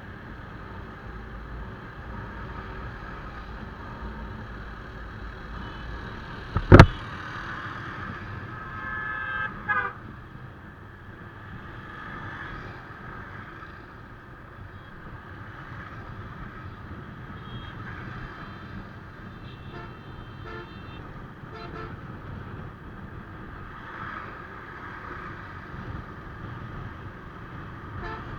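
Motorcycle riding along a highway: steady engine and road noise, with one sharp loud knock about seven seconds in. A vehicle horn honks for a couple of seconds right after, and short horn beeps come again around twenty seconds in.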